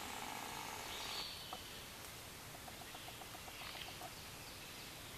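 Birds calling over a faint steady hiss. There is a short call about a second in, then a run of evenly spaced short low notes, about six a second, between two and four seconds in.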